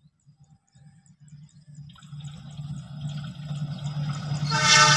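CC 206 diesel-electric locomotive and its passenger train approaching, the rumble and rushing of the train growing steadily louder. Near the end the locomotive's horn starts to sound.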